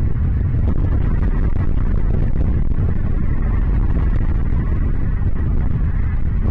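Steady low rumbling noise, even in level throughout.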